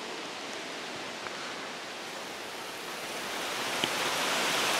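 Rain falling on the woodland leaves, a steady hiss that grows louder about three seconds in as the storm builds.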